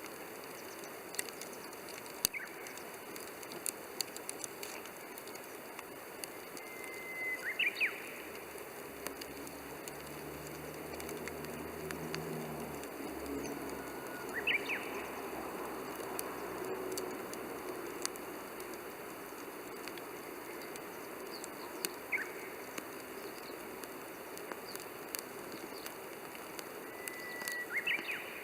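Wood fire crackling in a Coleman Fire Disc, with a steady hiss and frequent sharp pops. A bird chirps about five times in the background, and a faint low hum rises and fades in the middle.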